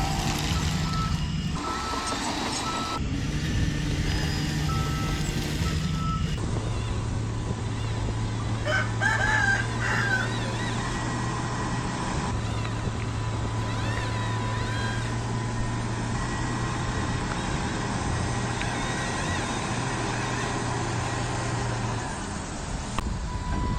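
A rooster crowing about nine seconds in, over a steady mechanical hum from the RC construction machines' motors.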